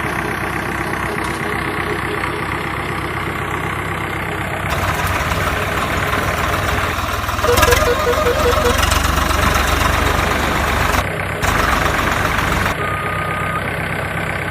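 Diesel engines of tractors and a loader running at a building-sand loading site, getting louder about five seconds in and dropping back near the end. A quick run of about eight short beeps sounds midway.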